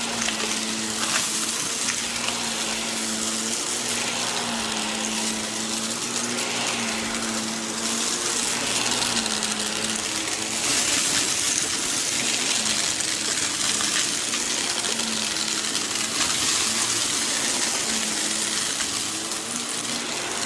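Upright floor-cleaning machine running steadily on a rug: a motor hum under a rushing hiss of suction that swells and eases every few seconds as it is pushed back and forth.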